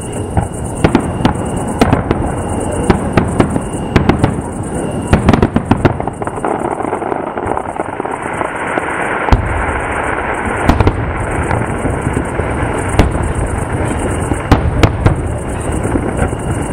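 Fireworks display: a steady run of sharp cracks and bangs from bursting shells, thickest around five to six seconds in, with one deep boom about nine seconds in.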